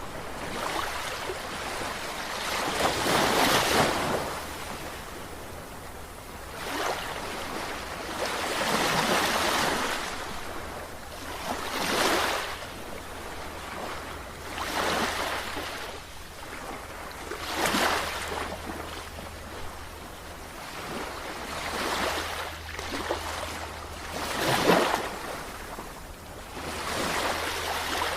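Sea waves breaking and washing on a shore, a fresh surge of surf swelling and falling away every few seconds, over a steady low rumble.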